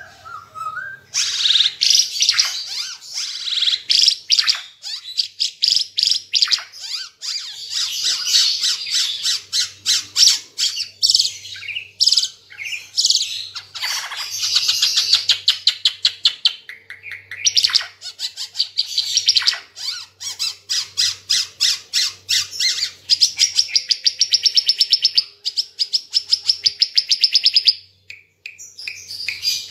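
Ara Timor songbird singing loudly in rapid strings of sharp, high chirps and fast trills, ending in a long, fast trill that stops abruptly near the end.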